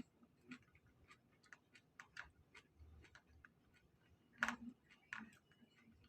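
Quiet eating sounds: scattered small clicks and smacks of chewing and handling food, with one louder click about four and a half seconds in.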